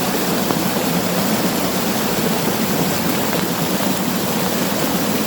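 Steady rushing noise of heavy rain and running floodwater.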